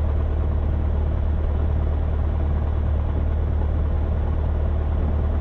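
Cessna 172's four-cylinder Lycoming engine and propeller running at idle, a steady low drone heard from inside the cabin while holding short of the runway.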